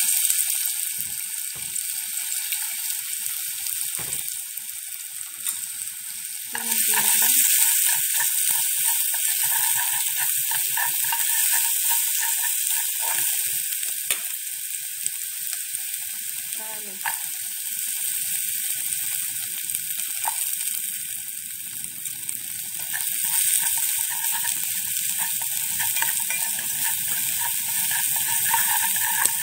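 Ginger strips sizzling in hot oil in a pan. The sizzle grows louder about six seconds in, and there is some stirring near the end.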